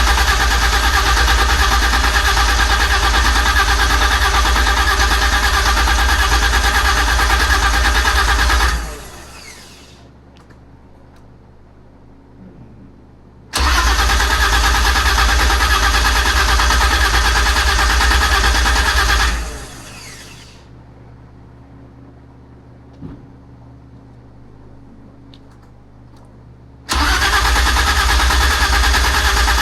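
V12 engine in a BMW E30 being cranked on the starter without catching, in three long steady bursts of about ten, six and a few seconds, each dying away quickly when the key is released. The builders trace the failure to fire to no fuel reaching the engine.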